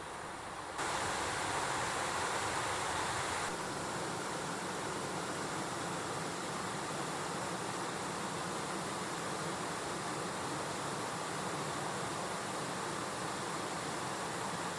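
Mountain stream water rushing steadily. The sound steps abruptly louder and brighter about a second in, then shifts again a few seconds later and stays even.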